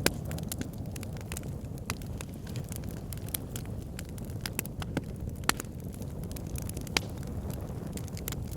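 Fire pit fire crackling: irregular sharp pops and snaps over a steady low rumble of the flames. Louder pops come about five and a half and seven seconds in.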